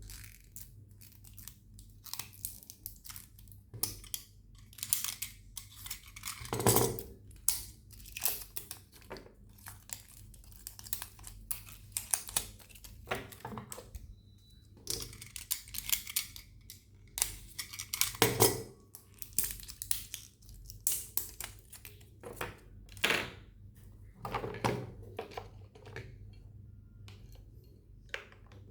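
Hands handling toy packaging: irregular clicks, crinkling and tearing of plastic and cardboard.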